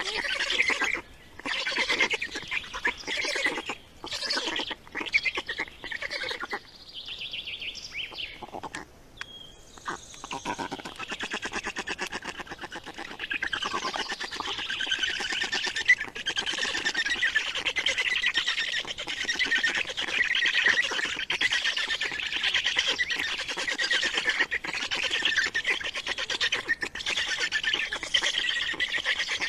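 A small bird calling in fast, continuous chirps, typical of a young bird begging while it is fed. The calls come in broken bursts at first, ease off for a few seconds, then run on without pause from about a third of the way in.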